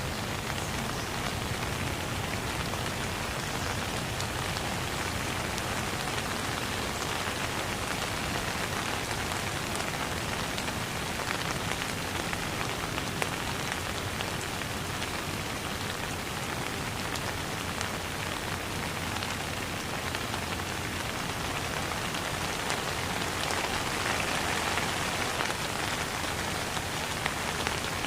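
Steady rain falling on a surface: a dense, even hiss flecked with fine drop ticks, growing a little heavier about 23 seconds in.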